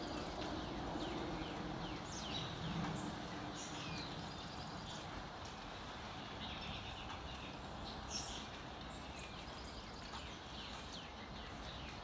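Early-morning chorus of several songbirds: many short, high chirps and quick down-slurred notes, overlapping throughout. Underneath is a steady low background hiss.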